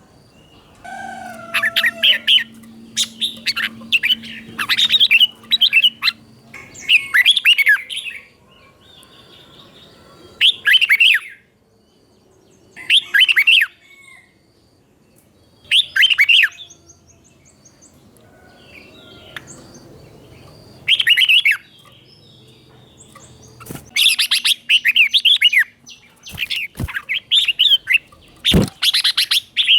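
Red-whiskered bulbul singing short, clear warbled phrases of the 'double' (เบิ้ล) song. A quick run of phrases comes at first, then single phrases every two to three seconds, then another quick run near the end. A faint steady hum lies under parts of it, and two sharp clicks come near the end.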